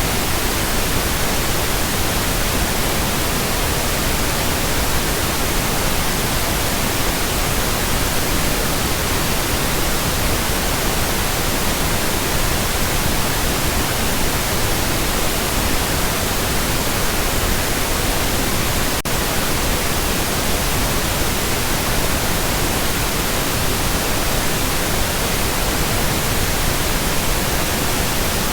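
Pink noise: a steady, even hiss spread across the whole range from deep to high, unchanging in level.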